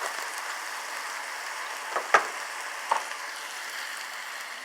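Chopped mushrooms, bell peppers, green onions and spinach sizzling steadily as they sauté in a pan, with three sharp clicks about two to three seconds in.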